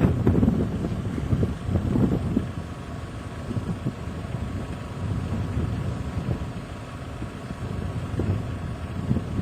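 Wind buffeting the microphone: a low, gusting rumble that swells and eases irregularly.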